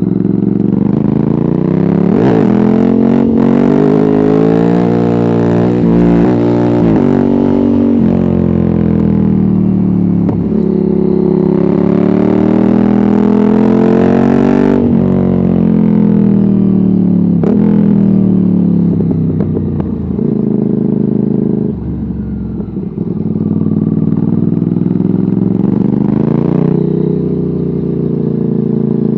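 Ducati Hypermotard 796's air-cooled L-twin through a de-catted Termignoni exhaust with no dB killer, ridden hard: the revs climb in quick sweeps as it shifts up through the gears, then fall away on roll-off. It eases to a quieter stretch a little past twenty seconds before pulling up through the revs again.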